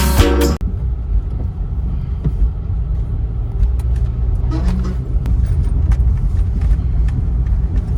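Music cuts off about half a second in, then a steady low rumble with scattered faint clicks and knocks.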